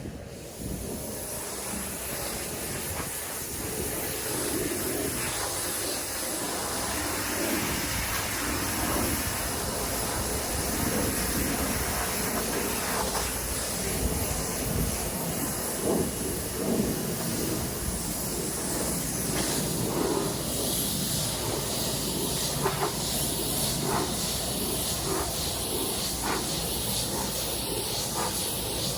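Water spray hissing steadily against vinyl house siding, starting abruptly and swelling and dipping a little as the spray moves over the wall.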